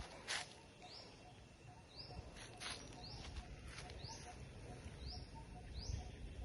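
A bird calling over and over, a short rising note about once a second, against faint outdoor background with a few brief rustling bursts near the start.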